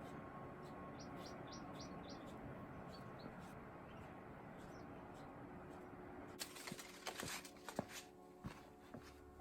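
A small bird chirps a quick run of five short high notes about a second in, then a few single chirps, over a faint steady outdoor hiss. From about six seconds in come irregular scuffs and clicks.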